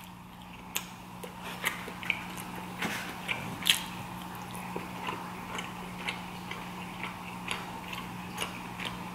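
Close-up chewing with irregular small wet clicks and mouth smacks, over a steady low hum.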